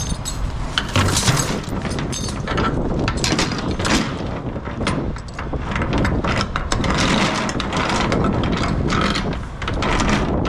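Wind buffeting the microphone, with repeated metallic clanks and rattles from the loading and chaining of cable coils on a flatbed trailer.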